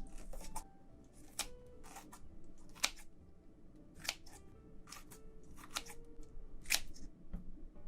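Close-miked eating sounds: a dozen or so sharp, wet clicks and snaps at irregular intervals, about one every half second to second, over faint background music.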